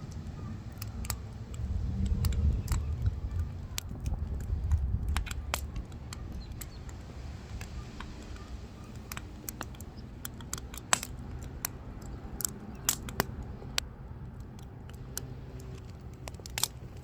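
Burning firewood crackling, with sharp irregular snaps and pops scattered throughout, over a low rumble that is louder in the first few seconds.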